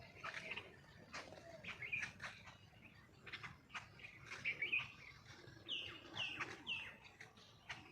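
Several small birds chirping: a busy stream of short, quick chirps, with three falling calls in a row about six seconds in.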